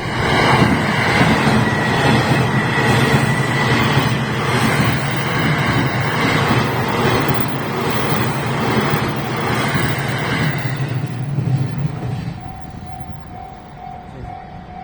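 Narita Express E259-series electric train passing over a level crossing: a loud rushing rumble of wheels on rail with a regular clack of rail joints. A level crossing bell rings under it and is heard plainly again once the train has gone by, about twelve seconds in.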